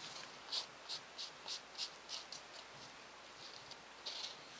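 Cloth dabbing wet watercolor paint on watercolor paper: a quick series of faint soft taps, about four a second, then a couple of scattered dabs near the end.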